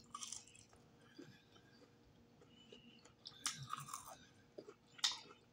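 A person chewing breaded fried chicken hearts close to the microphone, with crisp crunches that come loudest about three and a half seconds in and again near the end.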